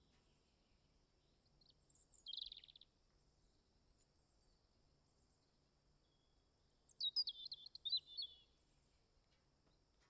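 Songbirds calling: a short buzzy call about two seconds in, then a quick run of chirping notes around seven to eight seconds in. A faint steady high-pitched hiss sits underneath.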